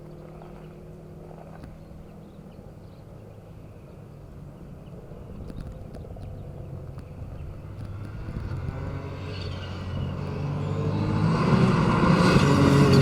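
A Ford Fiesta Rally4 rally car approaches from a distance, its turbocharged three-cylinder engine faint at first. The engine grows steadily louder over the second half as the car nears.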